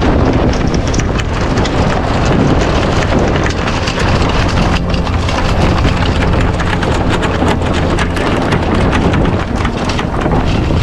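Wind buffeting the microphone on a small sailboat under sail: a loud, steady rumble with a constant crackle and hiss of wind and water.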